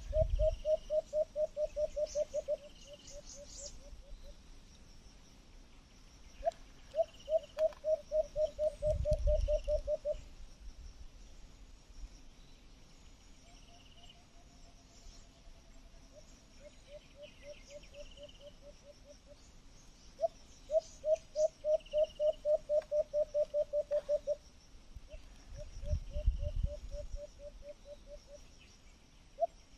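A bird calling over and over: runs of about a dozen quick low hoots, roughly five a second, each run a few seconds long, with softer runs between the louder ones. Two brief low rumbles come through about a third of the way in and near the end.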